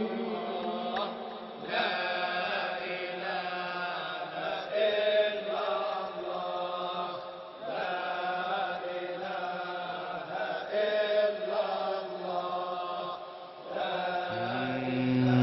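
Sufi dhikr chanting: a melodic line sung in phrases of a second or two with short breaks between them.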